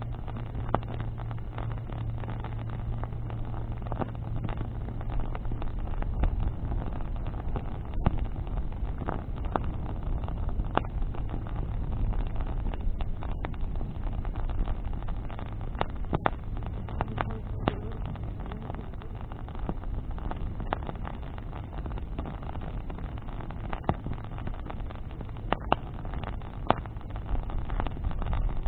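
Bonfire of burning branches crackling, with irregular sharp pops every second or few, over a steady low rumble.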